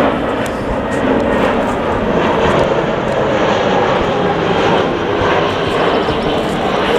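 Jet airliner's engines, a loud, steady rushing noise with no break.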